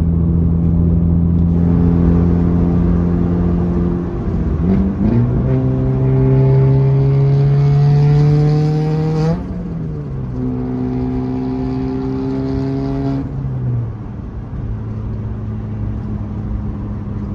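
Built Volkswagen Jetta MK4 engine pulling through the gears. The engine note holds steady, changes around four seconds in, then climbs in pitch for about four seconds. It drops at a gear change about nine seconds in, holds, and falls to a lower steady drone as the driver eases off near the end.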